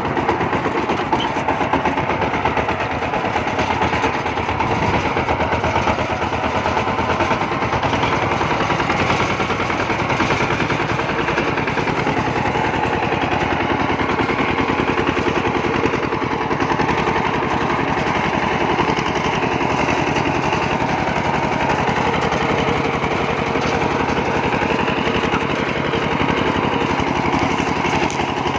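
Kubota RT140 single-cylinder diesel engine of a two-wheel walking tractor running steadily, with a rapid, even exhaust beat.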